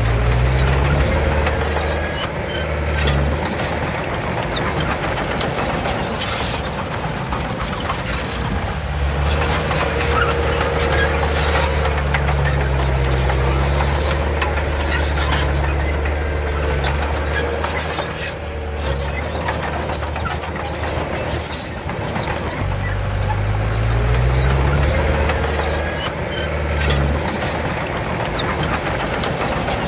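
Komatsu D31 crawler bulldozer's diesel engine working under load, revving up and dropping back several times as it pushes soil, with a wavering squeal and steady clatter from the machine.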